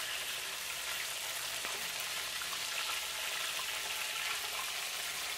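Breaded chicken pieces shallow-frying in vegetable oil in a cast iron skillet, a steady sizzle as the pieces are turned over.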